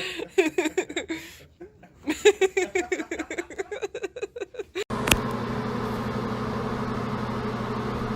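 A person laughing in quick, breathy bursts. About five seconds in this gives way abruptly to a steady low mechanical hum.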